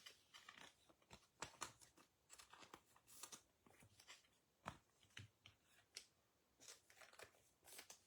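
Faint handling of trading cards: quick, irregular clicks and rustles as the cards are slid, shuffled and set down.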